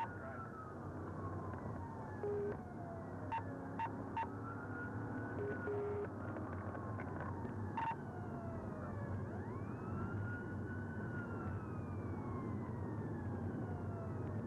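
Police sirens wailing, each sweep rising quickly and then falling slowly over a few seconds. A second siren joins at a higher pitch about nine seconds in, over a low steady engine hum, with a few short beeps.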